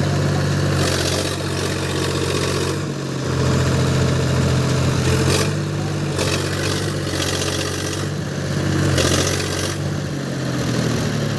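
Tractor diesel engine running and being throttled, revving up about three seconds in and again near nine seconds, easing back down in between.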